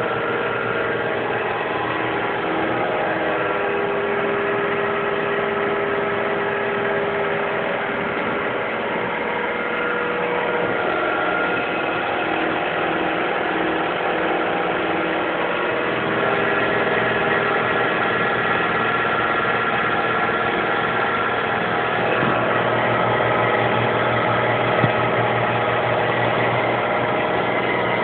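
Stepper motors of a homemade CNC machine running: a steady whine of several tones that shifts in pitch every few seconds as the moves change.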